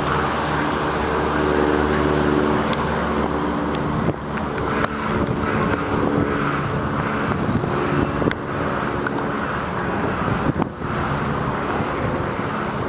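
Road traffic heard from a bicycle: a motor vehicle's engine hums steadily close by over a continuous rush of tyre and wind noise.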